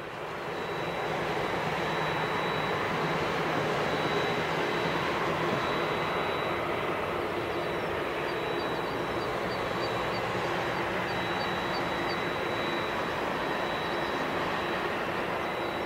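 Jet engine noise from a Boeing 787-10's Rolls-Royce Trent 1000 TEN engines: a steady rushing noise with faint hum tones in it, swelling over the first second or two and then holding level.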